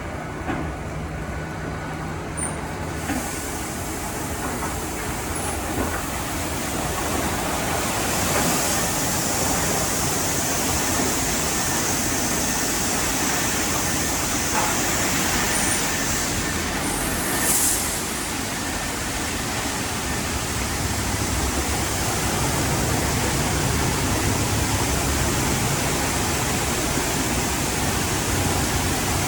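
Car wash tunnel equipment running with a steady rushing noise. The hiss grows louder about three seconds in and again around eight seconds in.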